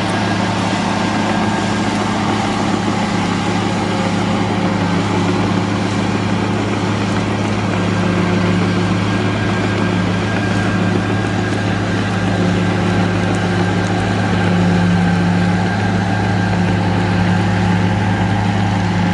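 An engine running steadily at a constant speed, its drone even throughout.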